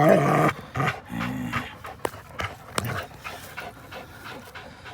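Dog panting hard during a tug-of-war game, starting with a brief low growl-like vocal sound and then settling into rapid, even breaths.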